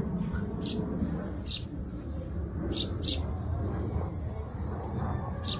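A bird chirping: a few short, high chirps, two close together about three seconds in, over a steady low rumble.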